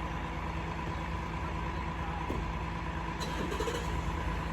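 Diesel engine of a Cat 352 excavator piling rig idling steadily, a low drone with a faint steady whine above it, while the crew rigs a pile.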